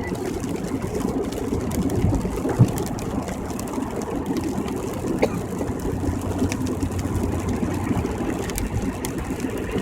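Steady road and engine noise from inside a car cruising on a rain-wet highway, with a short knock about two and a half seconds in and a fainter one about five seconds in.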